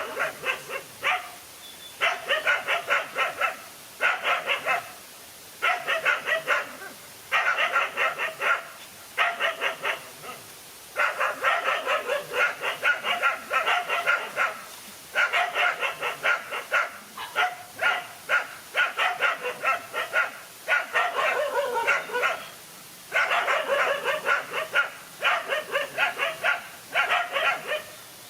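Dogs barking in quick runs of sharp barks, each run a second or two long with short pauses between, in a standoff between male dogs.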